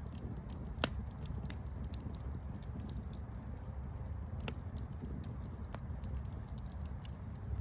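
Wood fire crackling: a steady low burning rumble with scattered sharp pops and snaps, the loudest pop just under a second in and another about halfway through.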